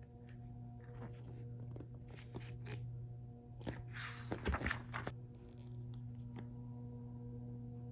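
Paper and plastic packaging being handled: light clicks and rustles, then a louder crinkling rustle about halfway through, over a steady low hum.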